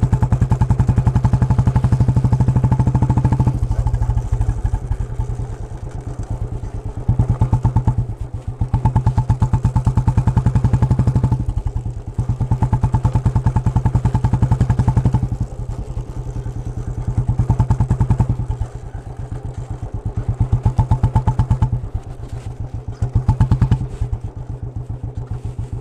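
Royal Enfield Bullet single-cylinder exhaust thumping on the move, the throttle opened and closed every few seconds so the beat alternates between louder and softer stretches. The exhaust runs a free-flow band with its baffle grilles removed and an Indori silencer, with the idle beat slowed, to imitate the thump of an old cast-iron-engine Bullet.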